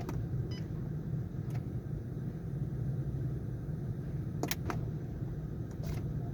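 A motor vehicle engine running with a steady low hum, with a few short sharp clicks in the second half.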